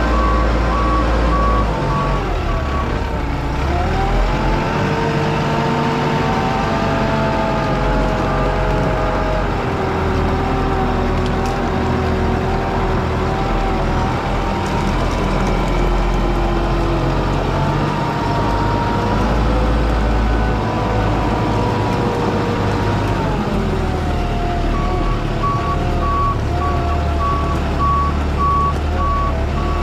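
Heavy diesel vehicle running and manoeuvring, its engine speed rising and falling, with a reversing alarm beeping in an even series for the first few seconds and again near the end.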